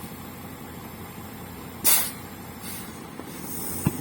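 Truck engine running steadily at low revs while being reversed, with a short, sharp hiss about two seconds in and fainter hissing after it.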